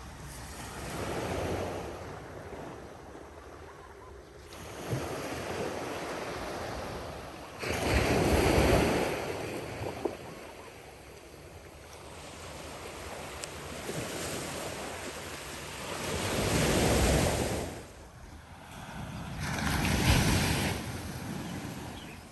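Ocean surf: waves breaking and washing up the shore in surges that swell and fade every few seconds.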